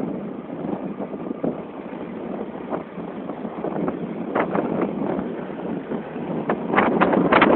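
Wind buffeting a phone's microphone while riding, a steady rush that turns louder and gustier near the end.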